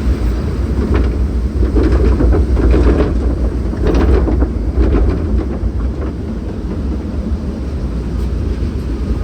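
Log flume boat rattling and clanking as it rides the ride's track, over a steady low rumble, with irregular knocks throughout.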